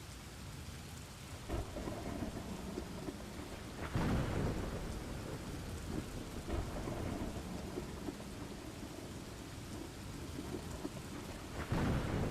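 Steady rain with rolls of thunder, the loudest rumble about four seconds in and another near the end.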